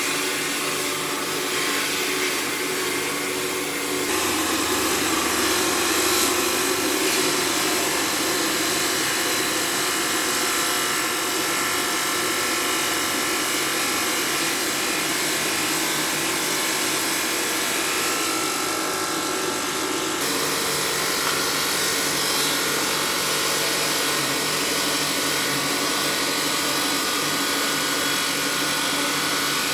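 Stone-processing machinery running steadily, a dense grinding noise with several steady tones in it, changing abruptly about four seconds in and again about two-thirds of the way through.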